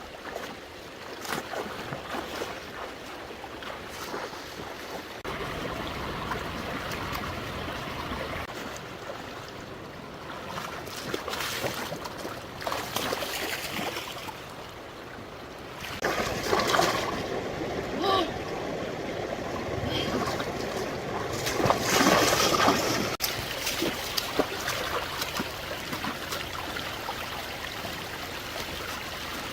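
Stream water running and trickling, with louder splashing about halfway through and again about three-quarters through.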